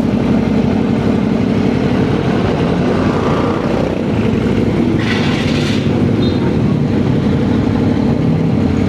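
Motorcycle engine running steadily under way in traffic, with a brief rush of noise about five seconds in.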